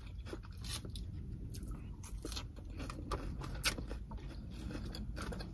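Close-up chewing of crisp salad greens: irregular small crunches and clicks over a low steady rumble.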